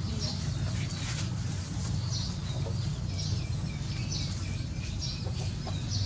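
Small birds chirping repeatedly, about once a second, over a steady low rumble.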